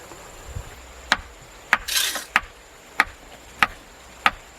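A hand tool striking repeatedly and evenly, about one sharp knock every 0.6 s, with a brief scraping rush about two seconds in.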